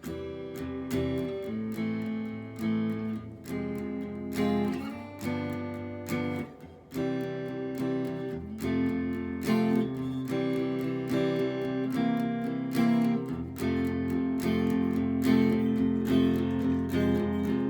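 Squier Stratocaster electric guitar played clean through a Fender Tone Master Twin Reverb amp with its reverb on and no pedals. Plucked single notes and chords ring on in a slow, 1950s-style ballad melody.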